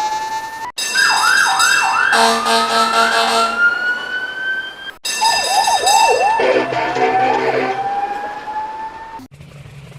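Police car electronic sirens in quick-cut clips. Twice, a few rapid yelping sweeps give way to a long, slowly rising wail, with a steady horn tone sounding over the first wail. Near the end it cuts to a low, steady engine rumble.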